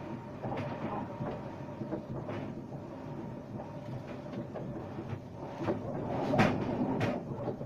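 Inside a moving RER B commuter train: steady running noise of the wheels on the rails, with scattered clicks and two sharp knocks near the end, the first being the loudest.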